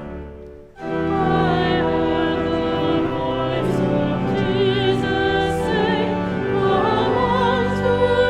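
A sustained organ chord breaks off, and about a second in the music resumes: singing with vibrato over organ accompaniment.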